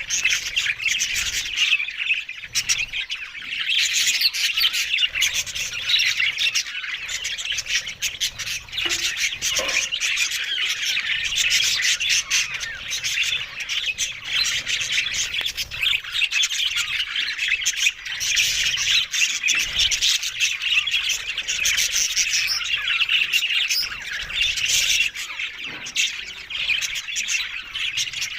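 Budgerigars chattering: a dense, unbroken stream of high chirps and warbles.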